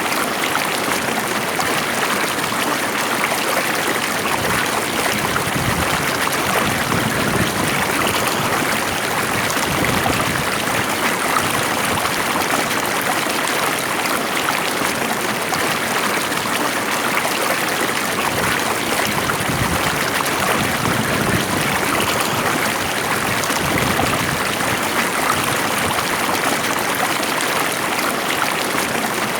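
A stream of water flowing steadily and evenly, with no pauses or sudden changes.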